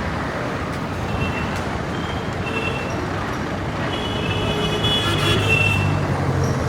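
Busy Indian street traffic: a steady wash of engines and road noise, with several short high-pitched beeps through the middle and a vehicle engine growing louder near the end.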